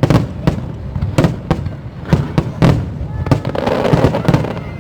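Fireworks display: aerial shells bursting in rapid, irregular bangs, several a second, with a denser, noisier stretch about three and a half seconds in.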